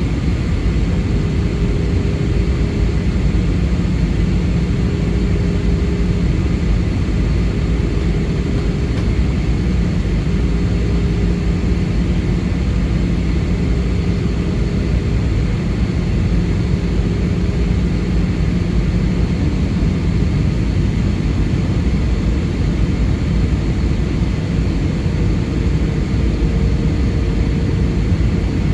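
Steady cabin noise inside an Airbus A320: the constant drone of the jet engines and airflow, with a faint low hum underneath and no changes.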